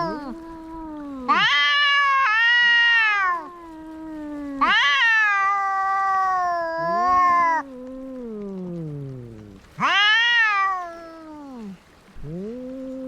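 Two cats caterwauling in a fight standoff. They trade long, drawn-out yowls that waver and bend in pitch, about five calls, some rising and some sliding down low, one cat's call overlapping the other's.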